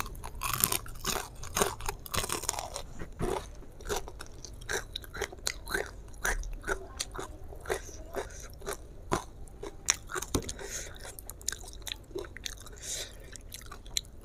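Crispy fried chicken being bitten and chewed, the battered crust crunching in many sharp, irregular crackles.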